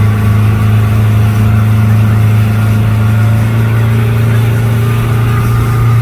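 Speedboat engine running steadily at a constant speed, a loud, even drone.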